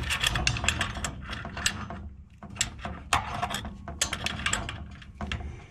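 Crescent wrenches turning the nut of a compression fitting on a water tank's supply pipe as the fitting is tightened down: a run of irregular metal clicks and creaks, with a short pause about two seconds in.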